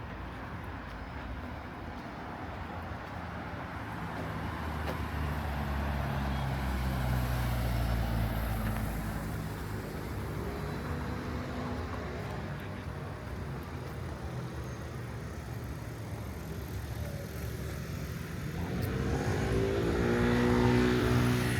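Motor vehicles passing along a city street: one engine swells past about six to nine seconds in, and another builds near the end, its pitch rising as it accelerates.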